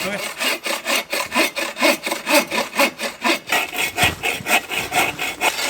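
Hand saw cutting through a wooden log in steady back-and-forth strokes, about two a second.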